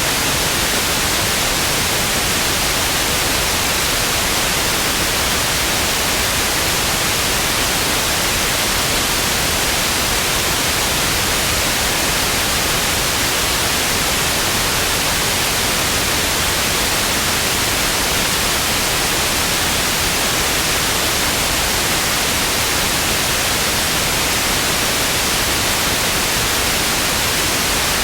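Television static: a steady, even hiss, strongest in the upper range, with no tone and no breaks.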